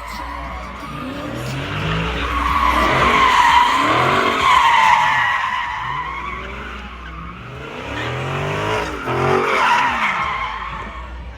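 A car doing a burnout: the tyres squeal while the engine revs up and down over and over. The squeal swells loudest in the middle and again near the end.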